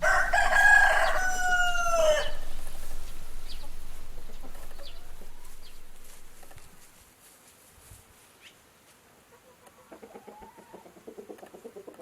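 Rooster crowing once, a loud call lasting about two seconds that drops in pitch at the end, then trailing off; fainter sounds follow near the end.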